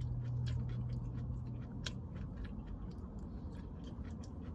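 Close-miked chewing of fried chicken food, with scattered short wet mouth clicks and smacks. A low steady hum sounds through the first two seconds or so.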